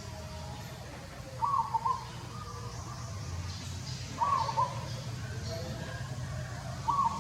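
A short animal call, repeated three times about every two and a half to three seconds, over a steady low rumble.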